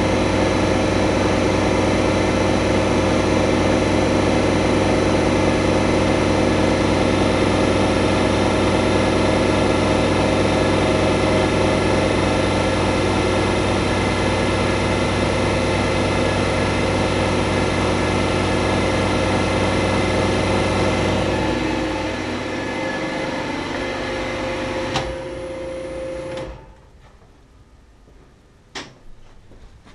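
Kärcher MV6 P Premium wet-and-dry vacuum cleaner running steadily. Its sound thins a little about three-quarters of the way through, then cuts off a few seconds before the end, followed by a couple of sharp clicks.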